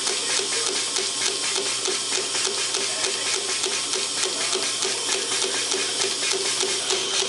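Vintage 1927 Champion piston air compressor, driven by an electric motor, running steadily and pumping air: a fast, even beat of its strokes over a steady hum and hiss.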